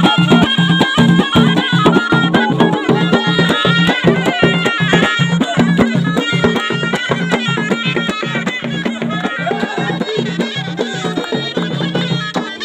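Traditional Moroccan folk music led by a ghaita, a loud double-reed shawm, playing a wavering, ornamented melody over a steady low note, with a regular drum beat underneath.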